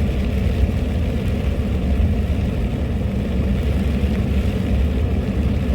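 Steady low rumble of a vehicle in motion, engine and road noise with no change in pace.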